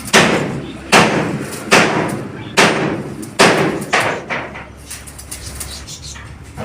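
Hammer blows on metal: six sharp strikes about one a second, each ringing briefly, stopping about four seconds in.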